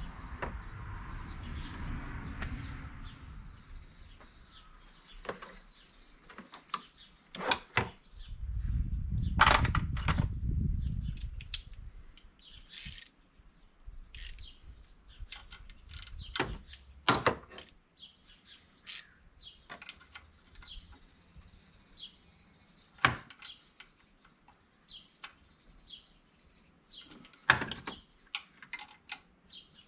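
Scattered light clicks and clinks, like small metal parts being handled, with a spell of low rumbling near the start and again about eight seconds in.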